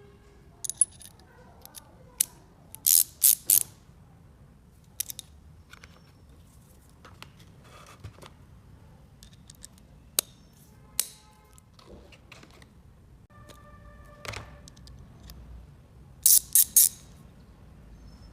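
A metal hand tool being worked, giving scattered sharp clicks and snaps, with quick clusters of three or four loud snaps twice and a brief metallic ring about two-thirds of the way through.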